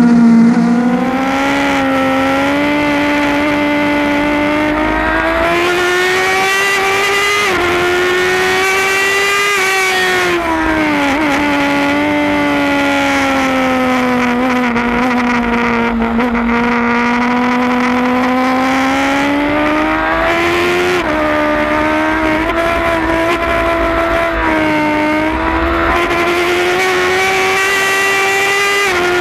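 Onboard sound of a 2008 Suzuki GSX-R1000's inline-four engine at racing speed, its pitch rising and falling over several seconds at a time, with a few sudden jumps.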